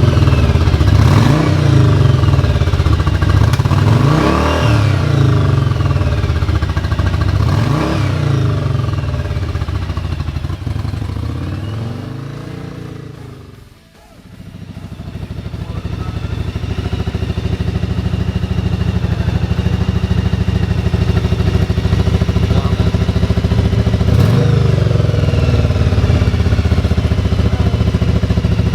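Yamaha Virago XV750's air-cooled V-twin engine running and being revved up and down several times after starting, its carburettors freshly set up with adjusted float levels. About halfway through the sound sinks away almost to nothing, then comes back up to a steady run, with one more rev near the end.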